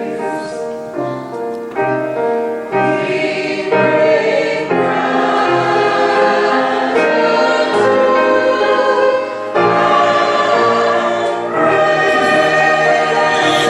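A choir singing a sacred cantata piece in slow, sustained chords.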